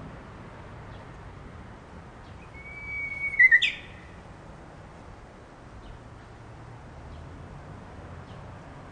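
Japanese bush warbler (uguisu) singing one song about three seconds in: a held whistle, then a quick, louder flourish that sweeps up and back down. A faint steady background hiss runs under it.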